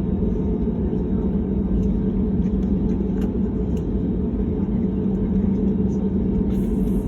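Steady low rumble of a passenger aircraft's engines and airflow, even in level throughout, with a few faint clicks.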